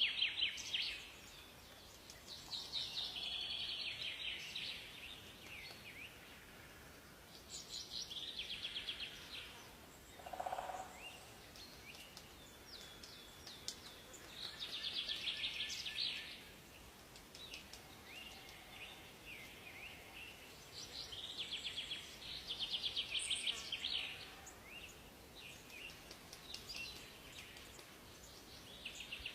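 Songbirds singing in a forest: rapid trilled song phrases of a second or two, repeated every few seconds, with a single lower call about ten seconds in, over a faint steady background hiss.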